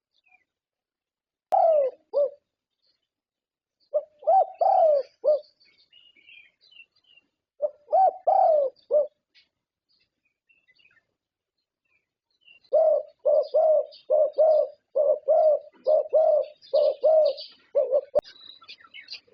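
Zebra dove (perkutut) cooing in short phrases of two, four and five notes. About 13 s in it breaks into a long, fast run of some fourteen coos.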